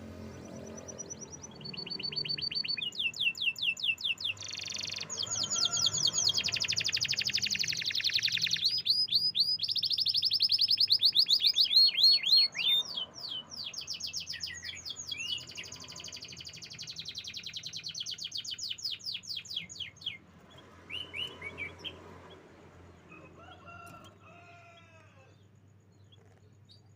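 Domestic canary singing a long song of rapid trills and quickly repeated notes, loudest in the middle, then thinning to a few short phrases near the end. A faint steady low hum sits beneath it.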